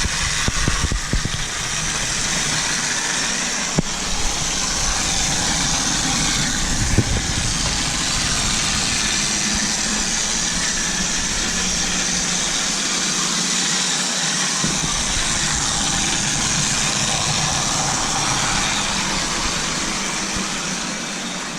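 Model train running: a locomotive pushing a Lionel track cleaning car whose Scotch-Brite-faced scrubbing wheel spins against the rails as it cleans the track. The whirring and rolling noise is steady and loud, with a few sharp clicks in the first several seconds.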